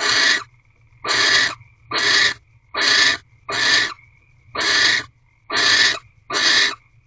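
Barn owl giving a run of harsh hissing calls, eight raspy bursts about half a second each at roughly one a second.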